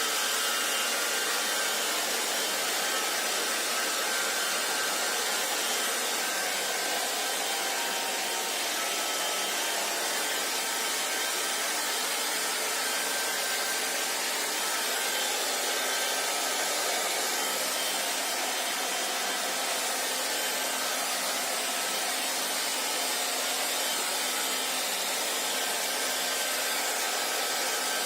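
Hair dryer blowing at a steady, unchanging rush, with a few faint steady whining tones in the noise.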